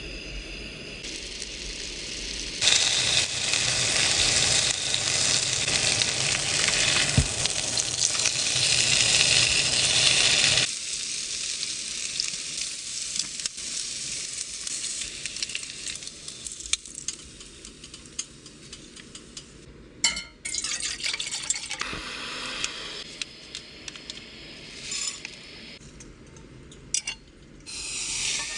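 Food sizzling in a frying pan, with a loud stretch of steady sizzle in the first half and quieter sizzling and utensil clicks after it.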